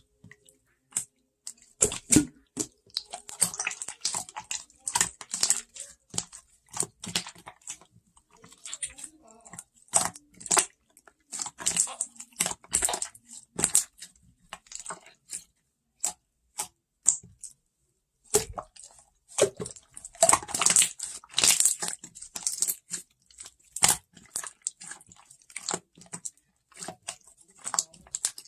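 Slime being squished and poked by hand, making irregular sticky crackles and small pops, with a quieter pause of a couple of seconds now and then.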